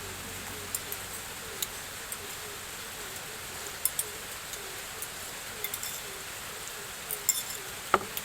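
Scattered light clinks and taps of utensils on a bowl, the loudest near the end, over a steady hiss of rain. A faint small chirp repeats about twice a second throughout.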